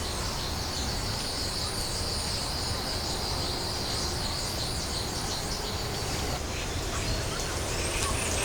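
Woodland ambience: a steady high insect drone that fades out about six seconds in, with a few faint bird chirps over a low background hum.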